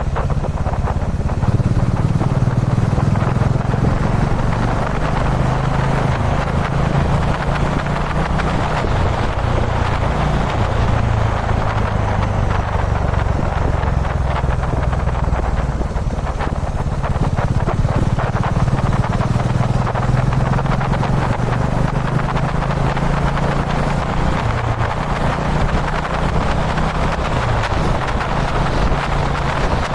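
Kawasaki Dominar 400's single-cylinder engine running at a steady, nearly unchanging cruising speed, with wind and road noise rushing over the microphone.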